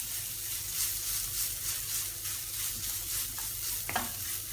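Shredded chicken sizzling in oil in a pan as it is stirred and mixed with the vinegar, soy sauce and pepper. It is a steady frying hiss with soft stirring strokes through it.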